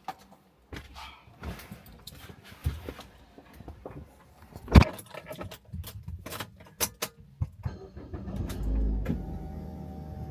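Keys jangling among a run of small clicks and knocks, with one loud thump about five seconds in. A low steady hum sets in near the end.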